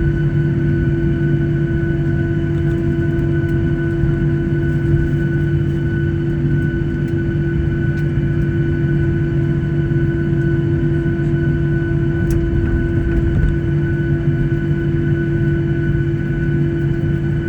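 Boeing 737-800 on the ground after landing, heard from inside the cabin: steady engine and airframe hum with a low rumble and a few fixed tones.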